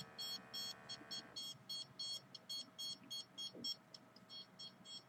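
Electronic alarm beeping in short high-pitched pips, about three a second, with a brief pause near the end. A faint steady hum underneath stops about a second and a half in.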